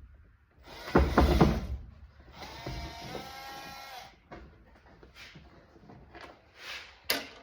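Power drill running in short spurts as door-panel screws are backed out: a brief loud burst about a second in, then a steady motor whine for about a second and a half. Light clicks and rattles of handled screws and parts follow, with a sharp click near the end.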